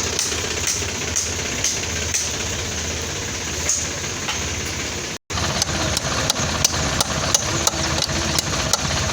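Sonalika tractor's diesel engine running steadily, with a regular sharp knock of a few beats a second over the drone. The sound cuts out for a split second just past the middle.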